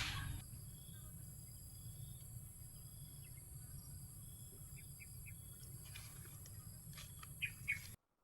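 Faint outdoor ambience: a steady high insect drone with scattered short chirps. Two brief, louder chirps come near the end, then the sound cuts off abruptly.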